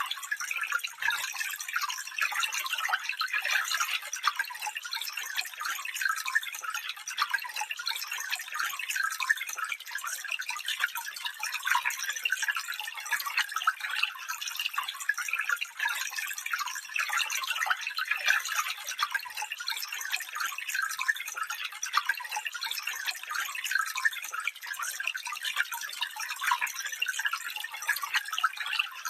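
Small stream flowing, a steady trickling and babbling of water over stones, bright and splashy with little low rumble.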